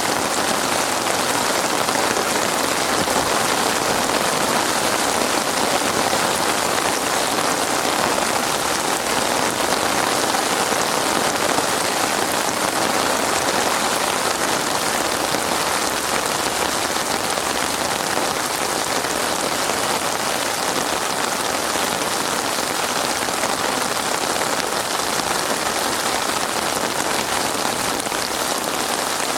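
Heavy rain falling steadily, an even hiss of drops on a surface with no breaks or thunder.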